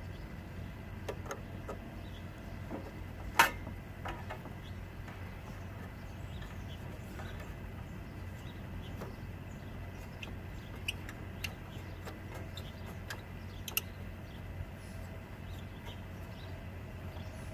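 A steady low hum with a few scattered small clicks and taps as the carburetor float bowl nut and bowl are worked off a snowblower engine. The sharpest click comes about three and a half seconds in.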